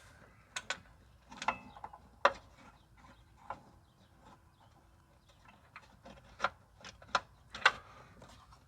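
Sharp metallic clicks and knocks of hand tools and parts being worked on a mower's cable and pulley assembly. There are about seven, irregularly spaced, and the loudest comes a little over two seconds in.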